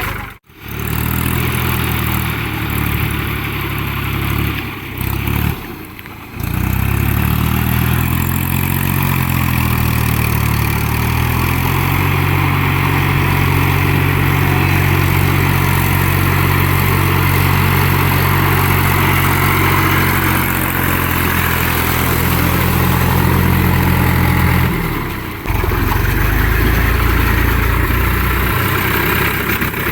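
Tractor diesel engine running under load. It revs up over several seconds and holds at high revs, with abrupt changes in the sound a few times.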